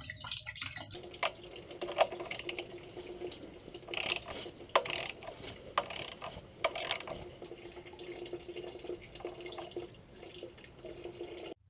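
Coolant (antifreeze) draining out of the Land Rover 300Tdi's bottom radiator hose into a bucket: a steady pour with irregular sharper splashes.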